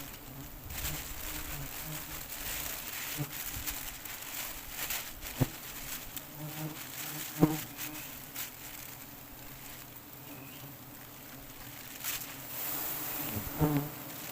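Swarm of wild honeybees buzzing steadily around their nest, with a few sharp knocks, the loudest about five and seven seconds in and again near the end.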